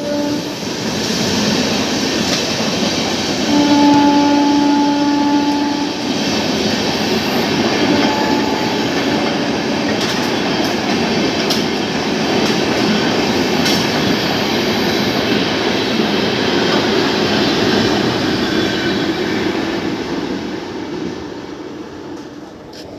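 Train passing: a steady rolling rumble of wheels on rail with scattered clicks. A locomotive horn sounds for about two seconds a few seconds in, and the rumble fades near the end.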